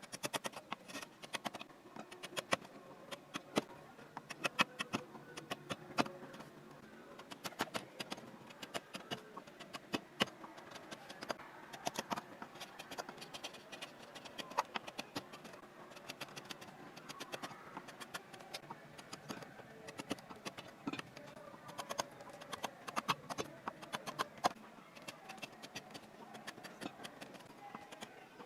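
Hand carving tools cutting into wood: a run of sharp, irregular clicks and taps as the blade bites and chips come away.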